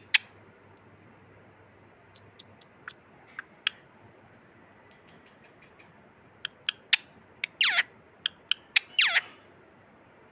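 Pet parrot making short sharp clicks and chirps, then two longer calls near the end that sweep downward in pitch.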